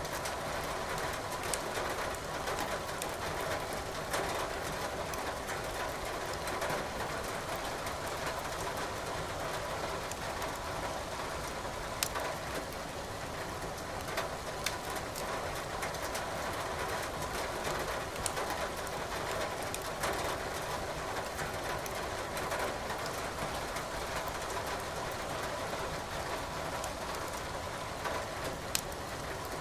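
Wood fire crackling in a fireplace, with scattered sharp pops and snaps over a steady hiss of rain.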